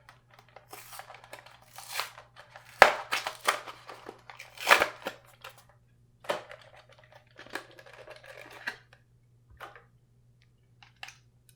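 Packaging being handled and torn open by hand: plastic and cardboard crinkling and tearing in irregular bursts with sharp clicks, over a faint steady low hum.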